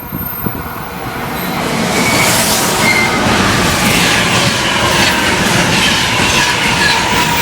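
Electric passenger train passing close at speed, a rising rush of wheel and rail noise with clattering over the rail joints and thin metallic wheel squeals.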